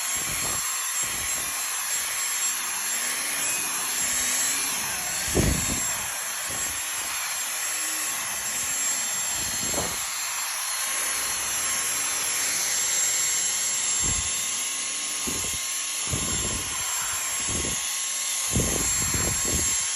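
Dyson vacuum cleaner running with a steady high whine and rushing air, with a few low knocks and bumps along the way.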